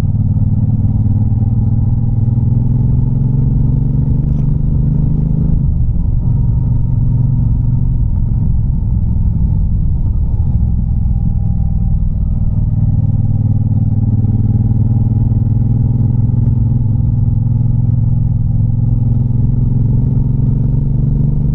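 Triumph Bobber's parallel-twin engine and exhaust under way, the revs creeping up steadily. The revs drop briefly about five and a half seconds in, then the engine pulls and climbs again.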